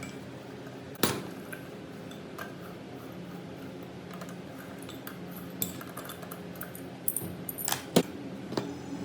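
Metal tools and small metal parts clinking and knocking against each other, with one sharp knock about a second in and a flurry of clicks and clinks near the end, over a steady low hum.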